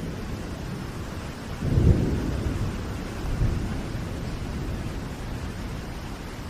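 Steady rain with low rolling thunder; the loudest rumble comes about two seconds in, and a weaker one about a second and a half later.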